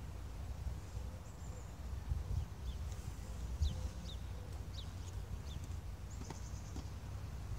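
Small birds chirping, a run of short, quick chirps that each drop in pitch, over a steady low rumble.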